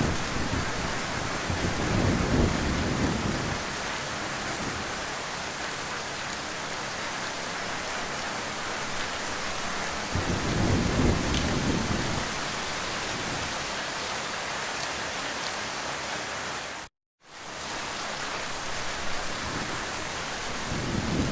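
Steady heavy rain, with low thunder rumbling three times: about two seconds in, about ten seconds in, and near the end. The sound cuts out completely for a fraction of a second about seventeen seconds in.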